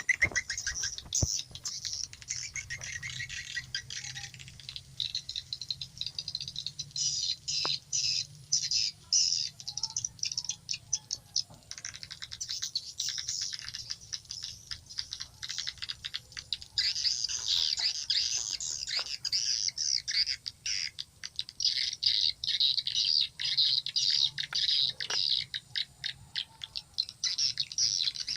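Swiftlet calls played back through a mobile phone's speaker as a lure sound: runs of quick, high chirps and twitters that go on without a break.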